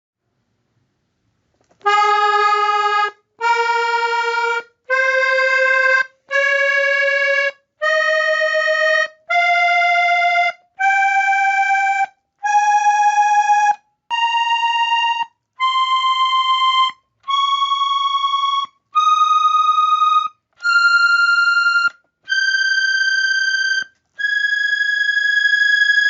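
Diatonic button accordion playing an ascending major scale one note at a time: fifteen separate notes climbing two octaves, each held about a second with a short gap between them.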